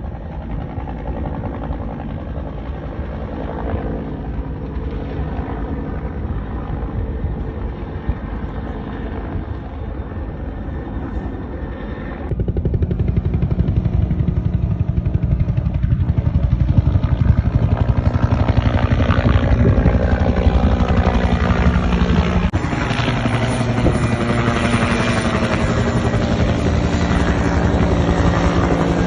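Bell 212 helicopter running overhead: steady fast rotor-blade chop under a turbine whine. It steps abruptly louder about twelve seconds in and shifts again about ten seconds later.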